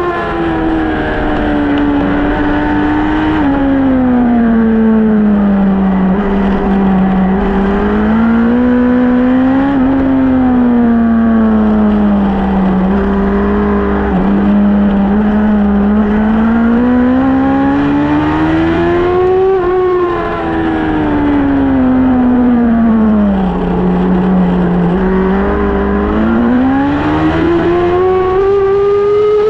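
Suzuki GSX-R1000 inline-four engine ridden hard around a track. The engine note climbs under acceleration and sinks as the bike slows for corners, several times over. About twenty seconds in it drops sharply with a brief dip in loudness.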